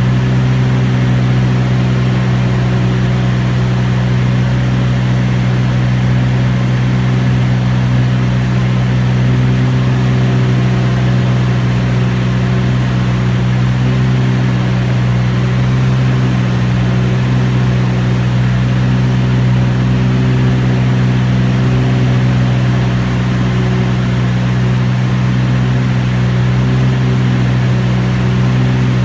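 T-34 Mentor piston engine and propeller running in flight, a loud, steady drone that holds an even pitch.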